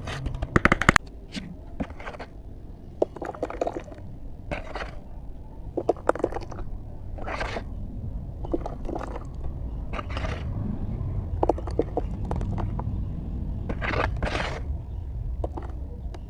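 Repeated ASMR crunching and scraping, in separate crackly bursts roughly once a second, with a quick cluster of sharp cracks near the start, over a steady low rumble.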